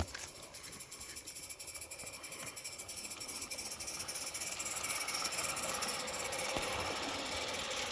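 Accucraft garden-scale model of a Puffing Billy NA tank engine running under steam: a steady hiss with fast, even exhaust beats. It grows louder through the middle and eases slightly near the end. A sharp click right at the start.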